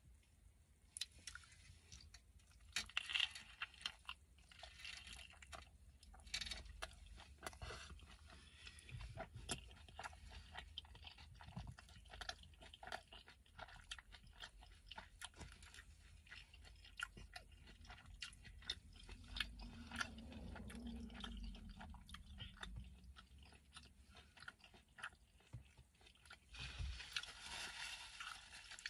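A person chewing mouthfuls of a burrito: soft, wet mouth clicks and smacks at an irregular pace, with a louder bite and wrapper rustle near the end.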